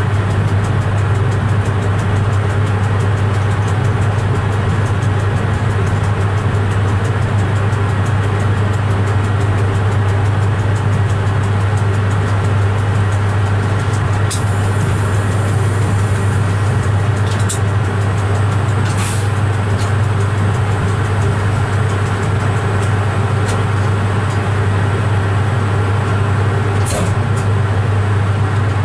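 Steady, loud low hum of a train's driver's cab. A few short high clicks come in the second half.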